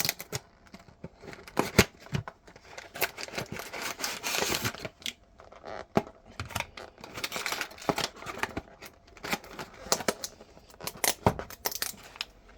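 Ice cream sandwich packaging being handled and opened: crinkling and tearing with many sharp clicks.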